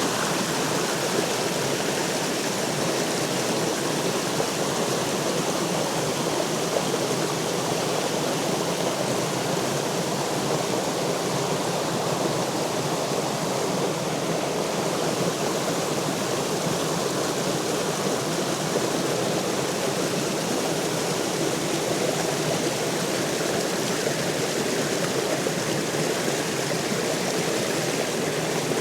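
A little waterfall on a mountain creek, its water splashing and running steadily without a break.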